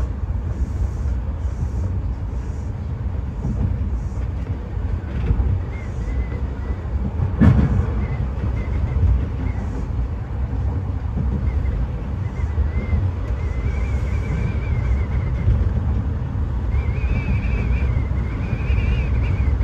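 Kintetsu 6020 series electric train running on the line, heard from inside the driver's cab: a steady low rumble of wheels on rail, with one sharp knock about a third of the way in. From about two-thirds in, a faint wavering high tone joins the rumble.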